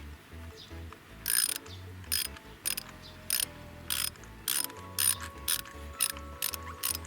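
Ratchet wrench clicking in a run of short strokes about half a second apart, driving a new spark plug into a Toyota Aqua's engine.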